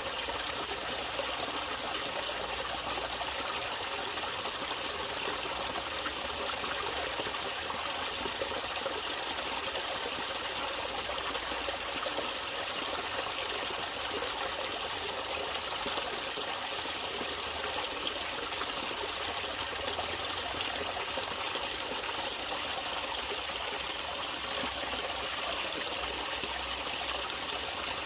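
Water in a natural stream flowing and trickling steadily, an even rushing sound with no change.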